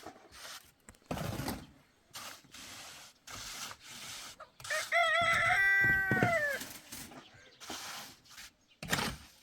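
A rooster crows once: one call of about two seconds that starts broken, holds its pitch, then falls away at the end. Short knocks and rustles come before and after it.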